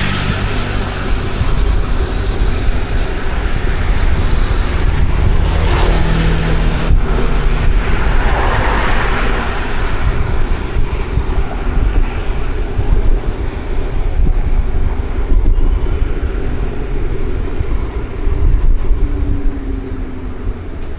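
City street traffic: a steady rumble of cars and other vehicles going by, swelling as nearby vehicles pass about six and nine seconds in.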